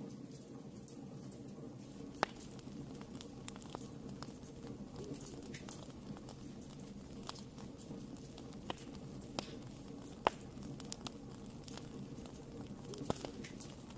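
Fire burning in a fireplace: irregular sharp crackles and pops over a steady low rumble of the flames, with two louder pops about two seconds in and about ten seconds in.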